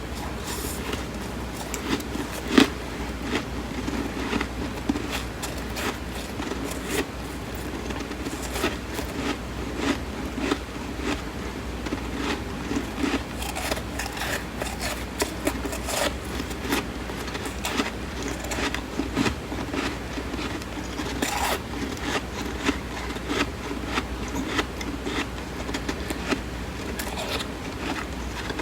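Close-miked chewing of flaky, crisp freezer frost: a dense, continuous run of small crackles and crunches, with one louder crunch about two and a half seconds in.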